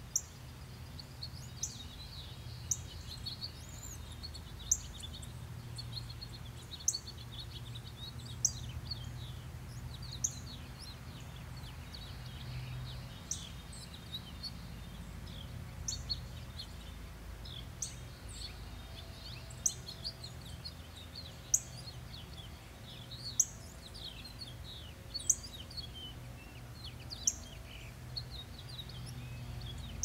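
Several small woodland birds chirping and twittering, with one sharp, high chip note repeated about every two seconds, over a steady low background hum.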